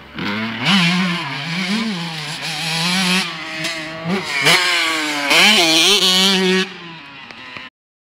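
Two-stroke motocross bike revving hard at close range, its pitch swooping up and down again and again with the throttle. The sound cuts off suddenly near the end.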